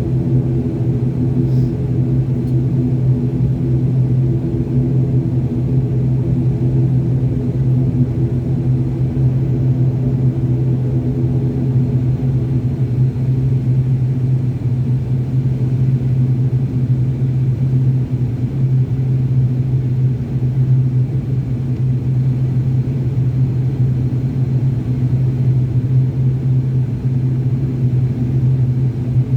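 Steady low drone of an airplane's engines after takeoff, holding an even level without rising or falling.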